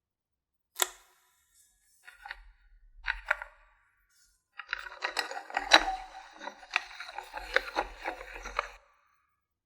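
Hard plastic toy pieces being handled: a sharp click, a few knocks, then several seconds of busy clicking and rattling that stops near the end.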